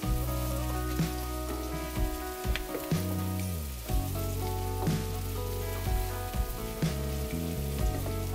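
Chopped vegetables sizzling and frying in a hot wok as they are stirred with a wooden spatula, with a few knocks of the spatula against the pan. Easy-listening background music plays over it.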